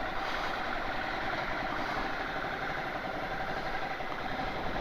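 Motorcycle engine running steadily at low revs while the bike creeps through slow traffic.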